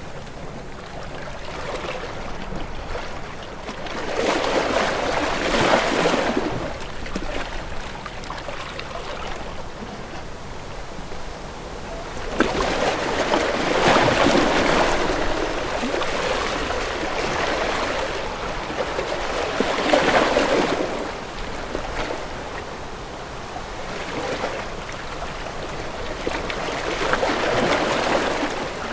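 Sea waves washing in and drawing back in slow swells, four surges of water noise with quieter wash between them.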